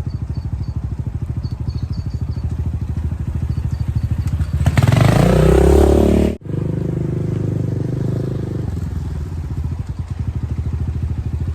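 10ten 250cc dirt bike engine idling with even, rapid firing pulses, revved up and back down for about a second and a half around five seconds in. The sound breaks off sharply, then the idle goes on.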